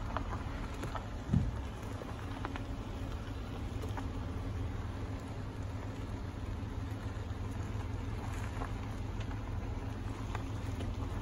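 Minivan's engine running as the van rolls slowly, a steady low rumble heard from inside the cab, with light scattered ticks and a brief low thump about a second in.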